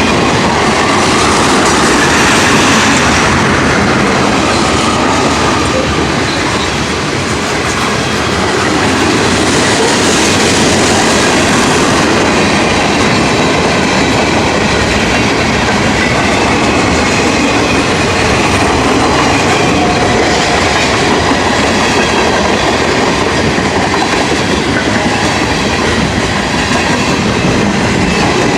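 Mixed freight train's cars rolling past, a loud, steady rumble and rattle of steel wheels on the rails.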